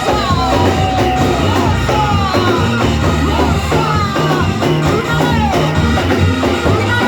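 Gospel band music with a steady bass line, drums, and a sliding melody line over them.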